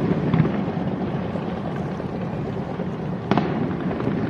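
Fireworks exploding in a continuous rumble, with a light crack just after the start and a sharp, louder bang just over three seconds in.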